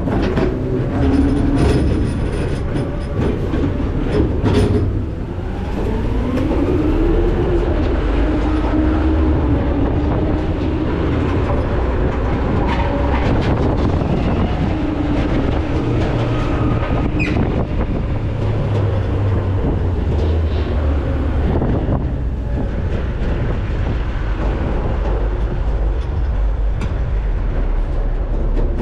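McNeilus ZR rear-loader garbage truck heard at its hopper: the diesel engine and hydraulics running with steady metal clattering and squealing. About six seconds in the engine pitch rises and then holds.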